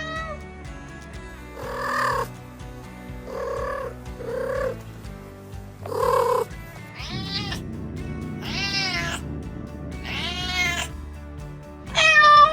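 Domestic cat meowing repeatedly over background music: four short meows in the first half, then four longer, higher meows that rise and fall in pitch, the last one the loudest.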